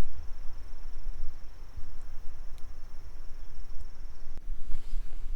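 A cricket trilling steadily, one high unbroken trill that stops abruptly near the end, over a low rumble on the microphone. Rustling begins just before the end.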